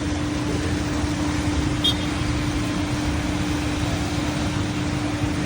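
Steady vehicle noise with a constant low hum, and one brief click about two seconds in.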